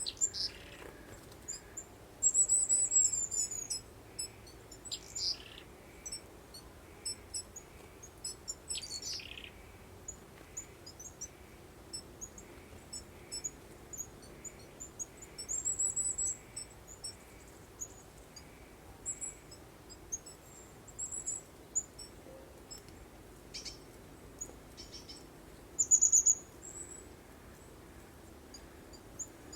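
Birdsong: scattered high chirps and short trills from several birds, with the loudest trills about three seconds in, around the middle and near the end. Beneath them is a faint, steady low background noise.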